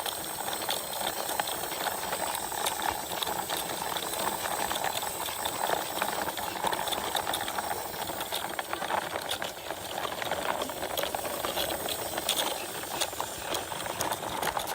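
Plastic wheels of a toy dump truck rolling over the ground as it is pushed by hand, a steady rattling crunch full of small clicks.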